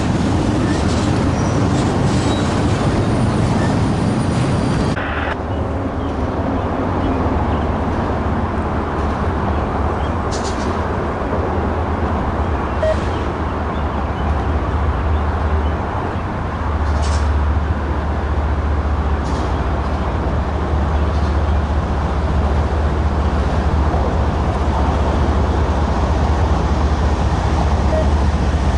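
Freight train rolling by with a steady low rumble and a few faint clicks. The sound changes abruptly about five seconds in, losing much of its higher hiss.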